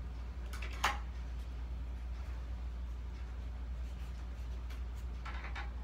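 Faint handling of packaging around a model airplane: a couple of sharp clicks a little under a second in and soft rustling near the end, over a steady low hum.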